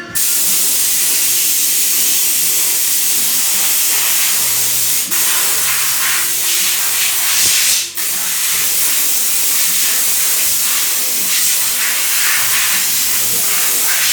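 High-pressure water spray hissing as a Toyota Avanza's engine bay is washed. It starts abruptly and runs steadily, with two brief breaks about five and eight seconds in.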